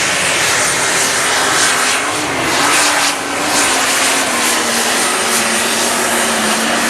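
Diesel super stock pulling tractor running flat out with a high turbo whistle over the engine. The engine note sinks slowly through the pull as the sled loads it down.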